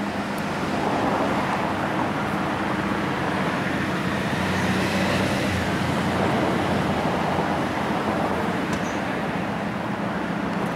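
Aston Martin Virage's 6.0-litre V12 engine idling steadily, with no revving.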